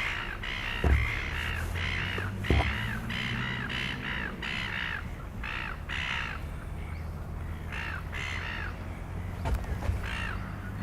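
A flock of corvids cawing over and over, many calls overlapping, with two sharp thumps about one and two and a half seconds in.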